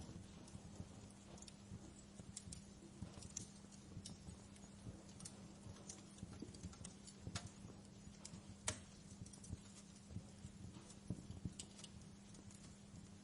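Wood fire crackling in a fireplace: faint, irregular pops and snaps, one sharper snap about two-thirds of the way through, over a steady low hum.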